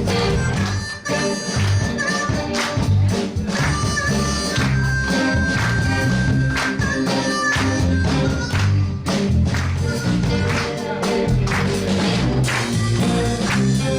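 Blues band playing an instrumental passage, a harmonica taking the lead with bent and held notes over electric guitar, bass and a steady drum beat.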